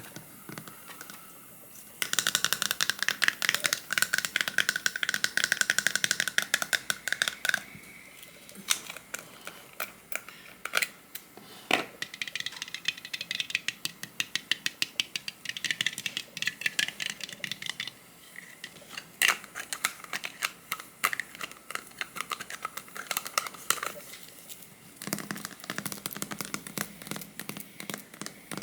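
Rapid clicking and rattling of small objects handled up close, in several bursts of a few seconds each.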